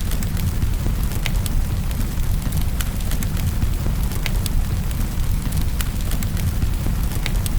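Wood fire crackling, with sharp, irregular pops over a steady low rumble and a constant hiss of rain.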